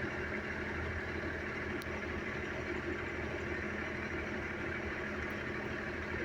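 A vehicle engine idling steadily, an even low hum.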